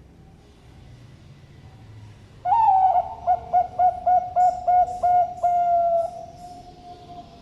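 Zebra dove (perkutut) cooing one full song: about two and a half seconds in, a long opening note, then a run of about eight quick repeated notes, ending on a longer held note that fades out. Fainter dove calls sound in the background.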